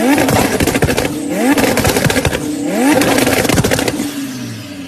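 Lamborghini engine revved hard several times in a row, each rev a quick rise in pitch, with the exhaust crackling and popping between revs; the sound dies down near the end.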